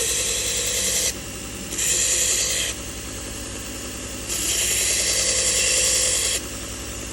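Toolcker 1x30 belt grinder running with a steady motor hum while a knife blade is pressed into the slack belt for sharpening. Three hissing grinding passes, the first ending about a second in, a short one around two seconds, and a longer one from about four to six seconds. The passes are kept short so the blade doesn't heat up.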